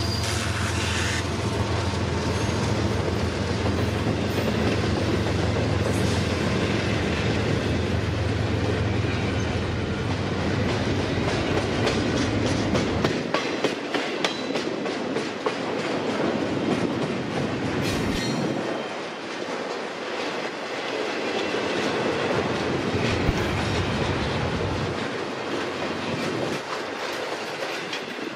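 A train rolling past at close range. A diesel locomotive engine runs steadily through the first half, then wheels click rhythmically over rail joints as the cars go by.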